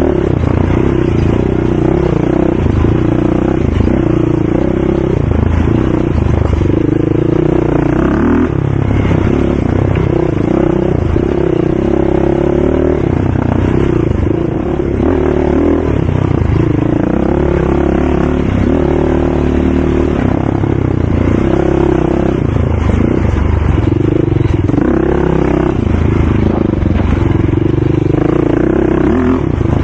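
ATV engine running under throttle, its pitch rising and falling every second or two as it revs and eases off.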